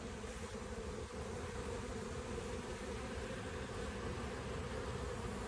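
Honeybees buzzing in a steady, even hum around busy beehives, with foragers flying in heavy with pollen.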